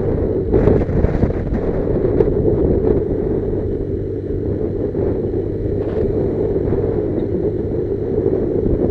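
Motorcycle engine running steadily under way, with wind rumbling on the microphone.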